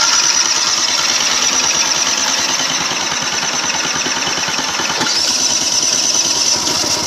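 Peugeot Trekker 50cc two-stroke scooter engine running steadily after a cold start, with a fast, even beat.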